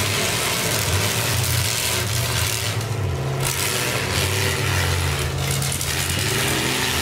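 Engines of several demolition derby cars running and revving as they drive and ram each other.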